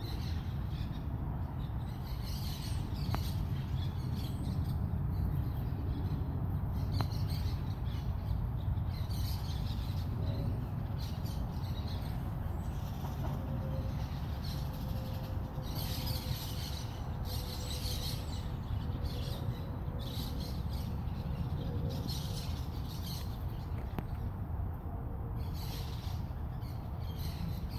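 Outdoor ambience: birds chirping now and then over a steady low rumble, with a faint steady hum joining about a third of the way in.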